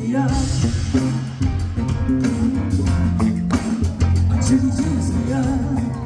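A band playing a song: guitar, bass and drum kit, with a steady beat.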